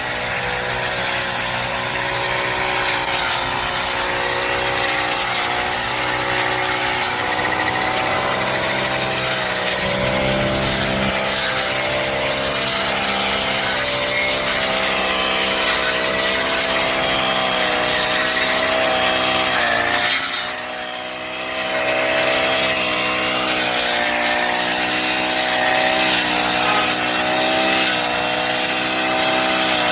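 Honda GX35 four-stroke brush cutter engine running steadily at high speed. The throttle eases off briefly about two-thirds of the way through, dropping the pitch and level for about a second, then it comes back up to speed.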